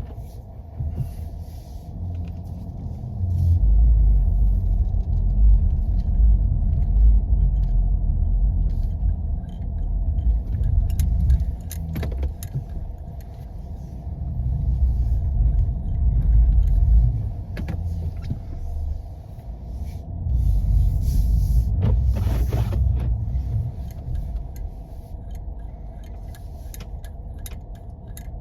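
Jeep driving on snowy back roads, a low rumble that swells and eases in waves, with scattered light clicks and rattles.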